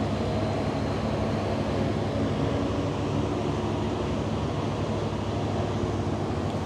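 Ferry engine drone, a steady low hum under a constant rush of wind and water.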